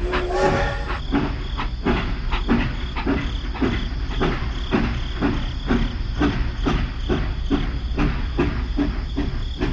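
Small motor-driven model machine running, with a low hum and an even, repeating clatter of about two or three clacks a second.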